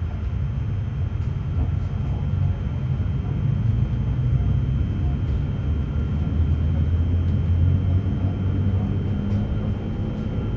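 Running sound heard on board a JR Hokkaido 731 series EMU, car Moha 731-109: a deep motor roar like an old nose-suspended (tsurikake) traction motor, an abnormal noise from the motor on the Otaru-end bogie. The rumble grows louder over about eight seconds, then eases slightly.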